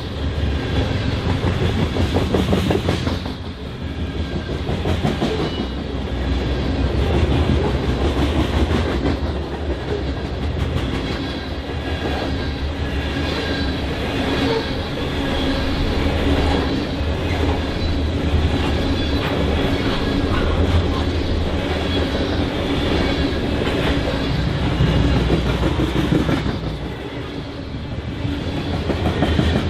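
BNSF freight train cars rolling past, their wheels clicking steadily over the rail joints.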